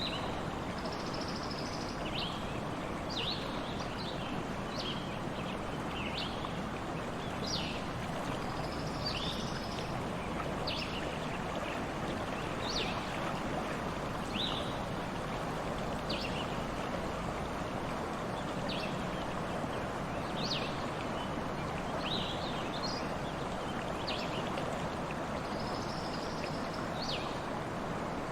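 Stream running steadily, with small birds chirping repeatedly, a short chirp every second or two and now and then a brief high trill.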